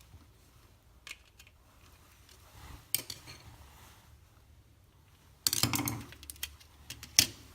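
Scattered metallic clicks and clinks of hand tools and small parts being handled during work on a wall power point, with a denser clatter about five and a half seconds in and a sharp click near the end.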